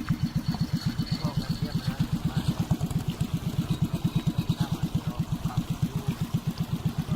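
Boat engine running steadily, with a fast, even chugging beat of about eight pulses a second.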